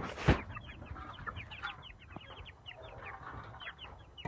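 A group of young chicks peeping busily: many short, high cheeps that fall in pitch, overlapping and repeating several times a second. A brief loud rustle or knock comes just after the start.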